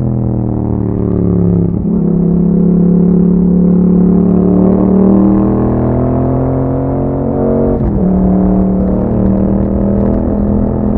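Yamaha MT-07's 689 cc parallel-twin engine running under way through an Akrapovic exhaust. The engine note breaks and changes pitch twice, about two seconds in and again near eight seconds, then holds steady.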